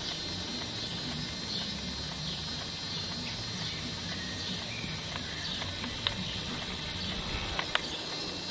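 Outdoor ambience: a bird repeating short falling chirps about once a second over a steady background hiss, with a few sharp clicks toward the end.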